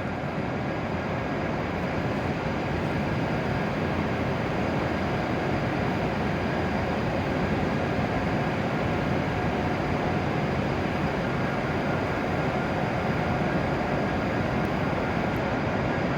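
W7 series Shinkansen train at the platform, giving a steady, even rumble and hum with faint steady whining tones above it.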